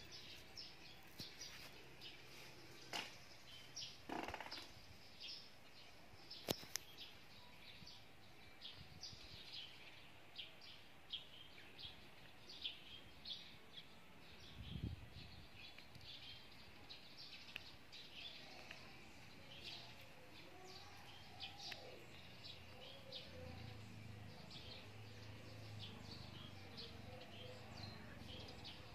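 Faint outdoor ambience with small birds chirping in the background: short, high chirps repeating every second or so.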